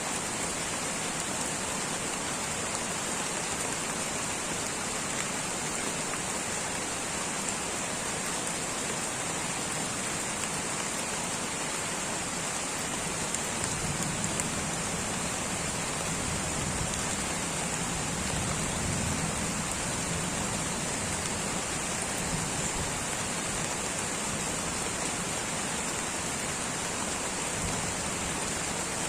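Light tropical rainforest rain falling steadily, an even hiss of drops. A low rumble swells and fades in the middle.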